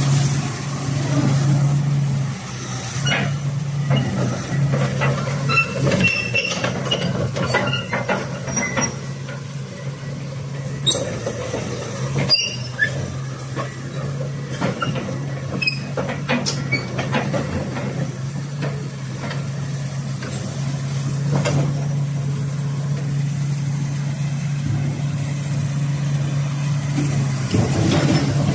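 Komatsu PC450 hydraulic excavator's diesel engine running steadily, with scattered sharp knocks and clanks throughout.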